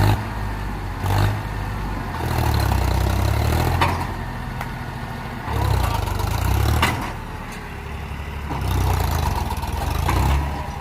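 Tractor diesel engine revving in repeated surges, each lasting a second or two, with a few sharp clicks in between.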